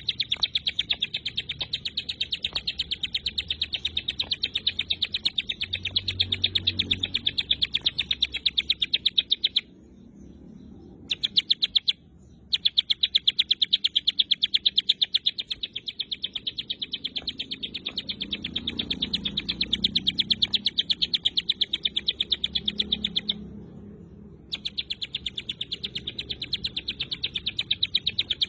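Ciblek gunung (a prinia) singing its rapid 'tembakan' trill: long runs of fast, evenly repeated high notes, broken by three short pauses.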